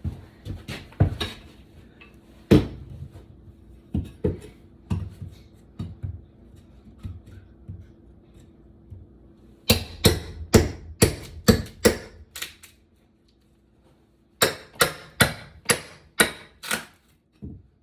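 A heavy 52-ounce Estwing framing hammer striking repeatedly while a flat pry bar is driven under old linoleum flooring. Irregular single blows at first, then two fast runs of about three blows a second separated by a short pause.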